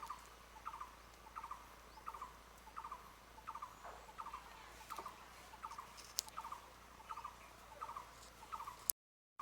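An animal calls over and over: a short call of two or three quick notes, repeated very evenly about every 0.7 seconds, with a few faint clicks.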